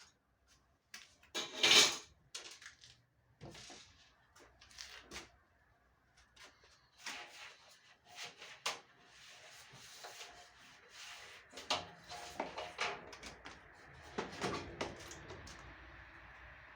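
Scattered knocks, clicks and clatter of parts and tools being handled during work on a tumble dryer, the loudest knock about two seconds in. A faint steady hiss comes up about halfway through.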